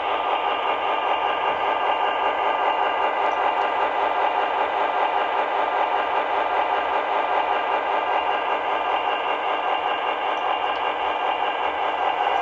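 MTH ABA diesel model locomotive set running, its onboard sound system playing a steady diesel engine rumble that comes through thin, with almost no deep bass.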